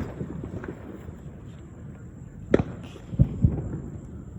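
Several bangs with no speech: a crack at the start, a sharper crack about two and a half seconds in, then two low booms in quick succession.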